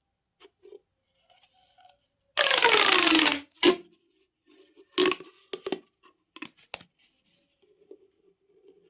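Plastic pop tube being stretched, giving a loud rasping pop-through that falls in pitch for about a second, then several sharp single pops and clicks as its ridges snap.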